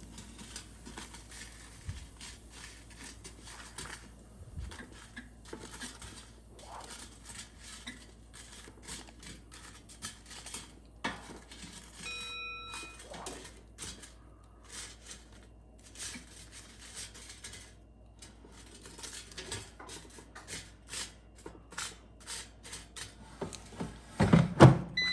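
A kitchen utensil clicking and tapping against the air fryer basket as the croquettes are turned over, in many short irregular knocks, with a short electronic beep about halfway through.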